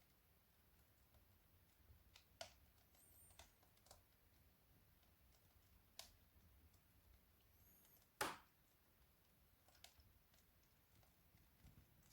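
Faint, sparse crackles and pops of a burning wood fire, half a dozen sharp snaps spread out, with one louder pop about eight seconds in.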